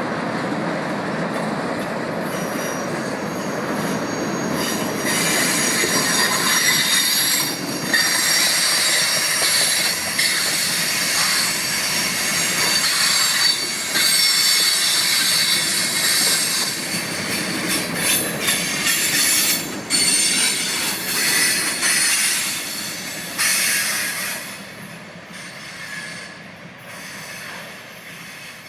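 Freight train cars rolling past with high-pitched wheel squeal. The squeal comes in about five seconds in and dies away over the last few seconds as the rumble fades.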